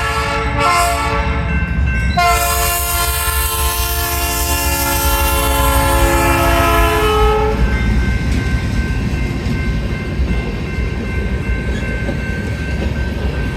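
A GE freight locomotive's multi-note air horn sounding what fits the close of a grade-crossing signal: the tail of a long blast, a short blast about a second in, then a long blast of about five seconds. After the horn stops, the steady rumble of the passing train, with wheels clacking over rail joints.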